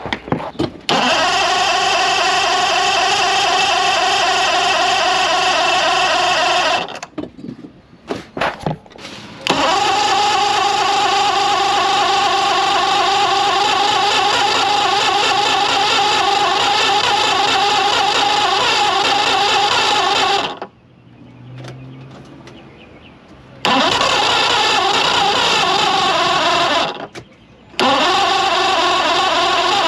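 Mercury 175 EFI V6 two-stroke outboard being cranked over by its electric starter in several long bursts with short breaks between, being tried after new ignition boxes and fuel line were fitted.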